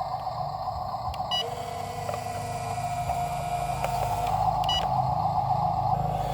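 Excavator running steadily: low engine rumble under a constant high whine, with two short sharp clicks about a second in and near the end.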